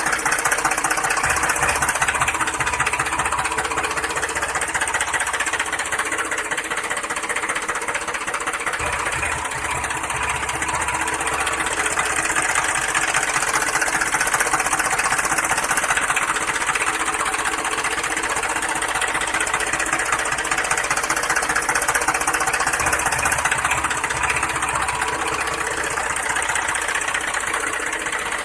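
A motor running steadily with a fast knocking rattle.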